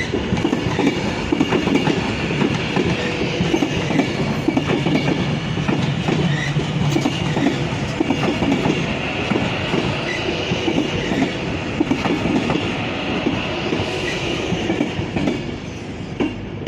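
Class 390 Pendolino electric train moving through the station, its wheels clattering steadily over the rail joints with a faint high whine; the noise eases off near the end.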